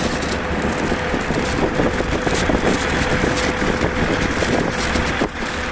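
Freight train passing through the station: a loud, continuous rolling rumble with irregular rattling, and a steady whine that stops about five seconds in.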